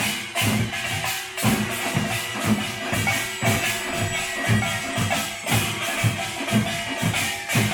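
Pungmul band of Korean folk drums and small gongs playing: deep drum strokes in a steady rhythm about two a second under a bright, jangling metallic clatter.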